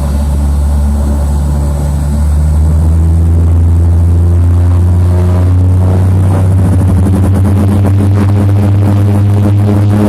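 Seaplane engine heard from inside the cabin, a loud steady drone that climbs in pitch and grows louder from about two seconds in as power comes up for the takeoff run.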